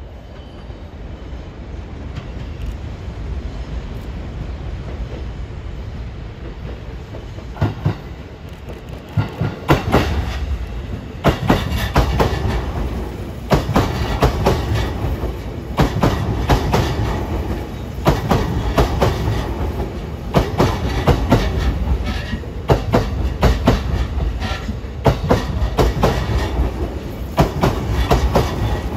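JR East E233-3000 series electric train coming in slowly: a low rumble that grows louder over the first several seconds, then wheels clicking over the rail joints in quick groups about every two seconds as the cars pass close by.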